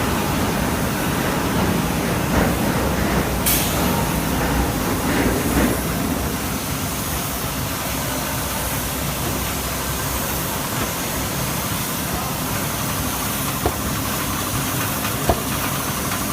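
Turntable brick-making machine running: a steady mechanical din with a few sharp knocks, one about three and a half seconds in and two near the end.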